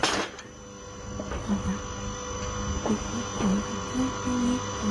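A steady hum with a sharp click at the start, and short, irregular low chirps scattered through it.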